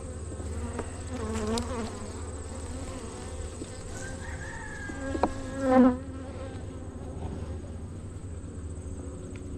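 Honey bees buzzing around an open hive: a steady hum, with single bees flying close past and their pitch wavering up and down. A sharp click about five seconds in, then a short louder buzz just before six seconds.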